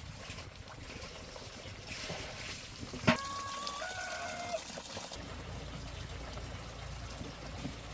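Water trickling steadily, with one sharp knock about three seconds in followed by a short high tone.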